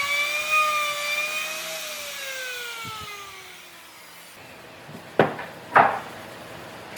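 A power tool's motor whines steadily, then winds down in pitch after being switched off. Two sharp knocks follow, about half a second apart.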